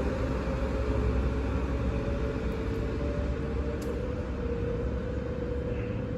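A train running through the station: a steady rumble with a faint hum that shifts slightly in pitch, slowly fading.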